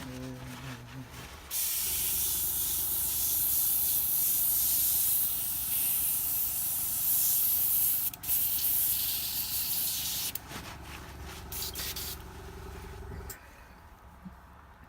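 Airbrush spraying a red ink mix in a long hiss that starts about a second and a half in, breaks briefly, then ends in a few short bursts. A steady low hum from the airbrush compressor runs under it and cuts off near the end.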